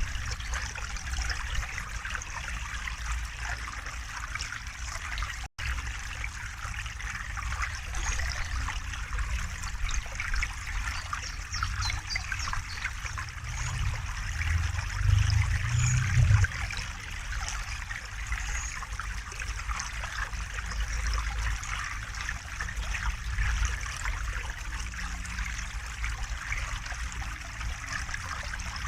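River water flowing and trickling steadily. A deeper low rumble swells for a few seconds around the middle, and the sound drops out for an instant about five seconds in.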